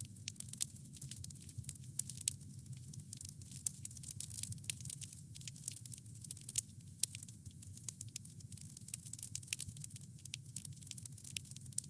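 Wood fire crackling, with frequent small irregular pops and snaps over a steady low rumble of the flames.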